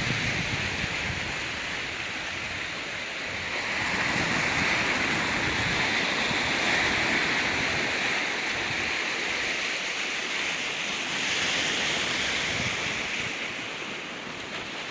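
Ocean waves washing onto a rocky beach, a steady hiss that swells twice, about four seconds in and again near eleven seconds, with wind gusting on the microphone.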